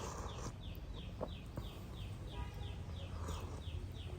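A small animal's short, high, falling chirp, repeated evenly about three times a second, over a low steady background hum, with a couple of faint clicks.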